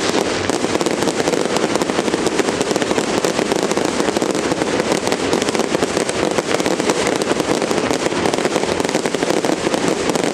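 Fireworks display: a dense, unbroken crackle of many rapid small bursts at a steady level.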